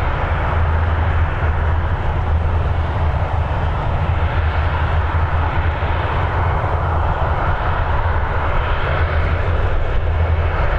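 Jet airliner engines making a loud, steady rumble that holds without letup.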